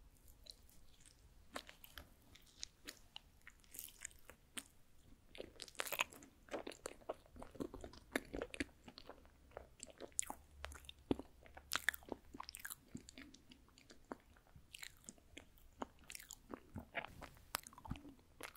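Close-miked chewing of rice cake (tteok): many short, sharp wet mouth clicks and smacks, starting about a second and a half in and coming thickest in the middle.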